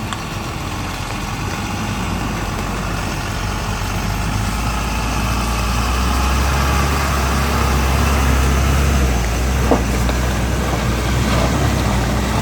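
A heavy road vehicle's engine running as it passes: a low hum that grows louder over several seconds and eases off after about nine seconds, over steady background noise.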